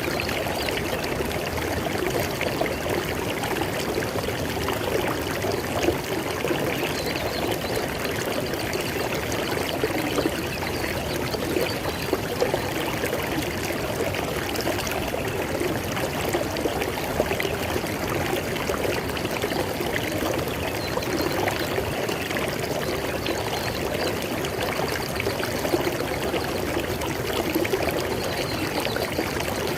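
River water flowing and splashing over rocks, a steady rushing with small irregular splashes.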